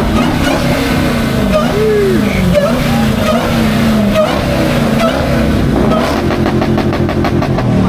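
Engines at a car meet revving and running, several pitches sweeping up and down over one another, with voices of people talking in the background. Near the end a fast, even pulsing exhaust note comes in.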